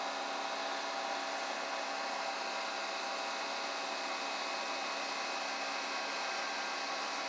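Steady fan-like hiss with a faint hum and a few thin steady tones, unchanging throughout; the steady running noise of bench equipment such as a cooling fan.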